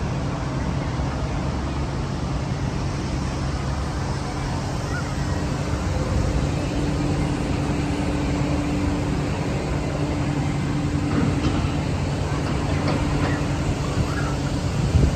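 Steady low mechanical rumble with a constant low hum, over a wash of outdoor noise.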